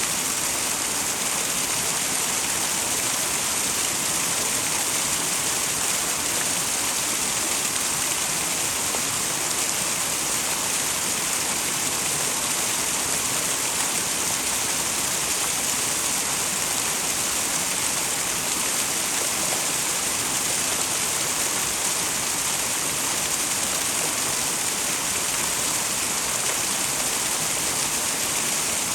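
Small twin waterfall on a mountain stream: water pouring and splashing in a steady, unbroken rush.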